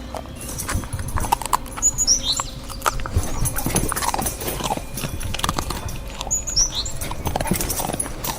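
A pack of African wild dogs scuffling and feeding at a kill, with irregular clicks and knocks. Short high chirps come about two seconds in and again near the end.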